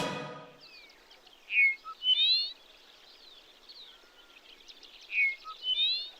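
Music fades out in the first half second. Then a songbird sings the same short, bright phrase twice, about three and a half seconds apart, over a faint chorus of other birds.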